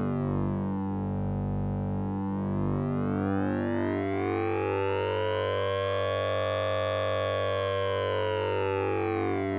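Synthesized sync and ring-modulated drone from the Orange Vocoder plug-in. A steady low tone sits under metallic, siren-like partials that sweep slowly up and back down, peaking about two-thirds of the way through.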